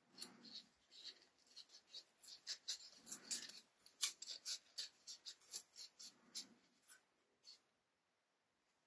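Paper being torn slowly by hand for a rough, raw edge instead of a cut one: faint crackling and rustling in short spurts, stopping about seven seconds in.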